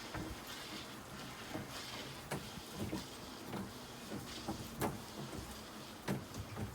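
A fishing boat's motor running steadily, with irregular knocks and clunks of gear being hauled aboard.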